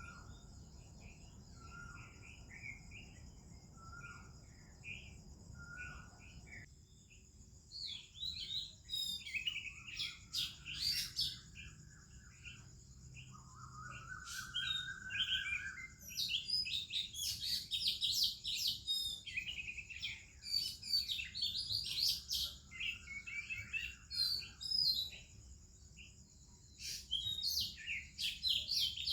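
Oriental magpie-robin and other birds singing: soft scattered chirps at first, then from about seven seconds in a loud, varied stream of sweet whistles, warbles and sharp chirps. A steady high hiss runs beneath.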